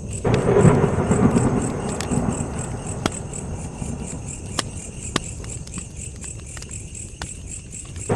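Wood fire crackling with a few sharp pops, over a low rushing rumble that swells just after the start and fades over a couple of seconds. Crickets chirp steadily in a quick, even rhythm.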